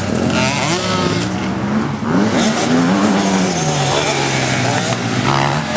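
Motocross bike engines revving on a track, the engine note rising and falling again and again with throttle and gear changes.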